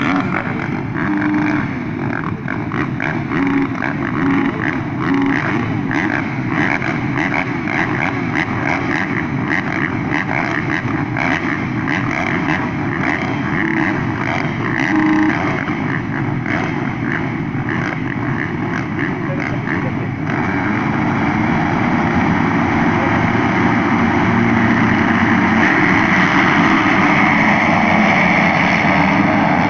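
Several motocross motorcycles racing, their engines running hard and overlapping into one continuous sound that grows louder about two-thirds of the way through.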